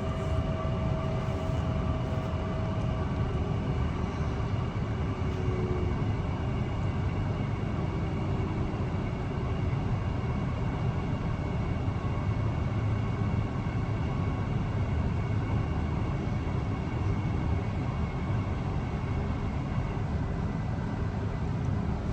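Steady running noise of a Mariyung (D set) electric train at speed: a low rumble with faint steady whining tones from the drive.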